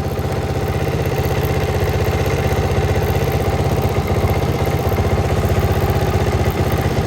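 Motorcycle's single-cylinder engine running steadily at idle with an even, fast pulsing beat.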